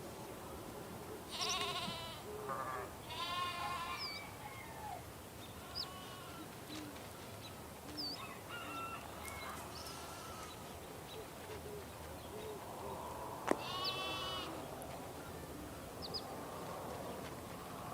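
Sheep bleating: a few loud, wavering bleats in the first four seconds, fainter calls in the middle, and another loud bleat about fourteen seconds in. Small birds chirp faintly in the background.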